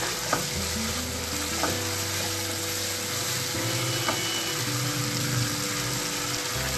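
Chopped vegetables sizzling in a hot stone-coated nonstick pan while a wooden spatula stirs and tosses them, with a few sharp knocks of the spatula against the pan.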